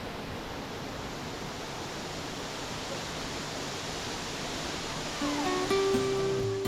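Steady rushing of falling water. About five seconds in, acoustic guitar music starts with plucked notes and grows louder.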